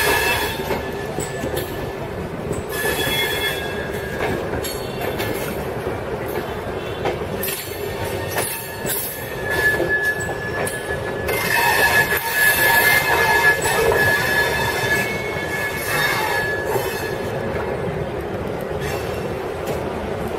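Train running slowly through the station tracks, heard from aboard, with a steady rumble. Its wheels squeal in several short bouts, loudest about twelve to fourteen seconds in.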